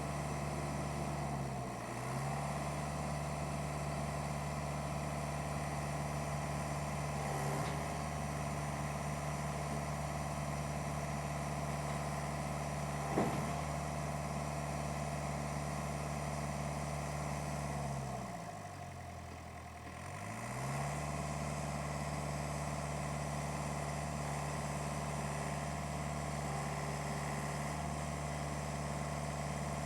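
Truck engine running steadily, its pitch dipping briefly about two seconds in and for a longer stretch around the twenty-second mark before coming back up. A single sharp knock halfway through.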